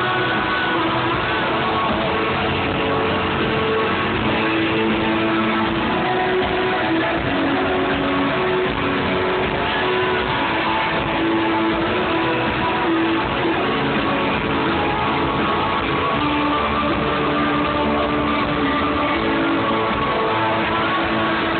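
Live rock band playing, with guitars prominent, in a loud, dense, continuous mix.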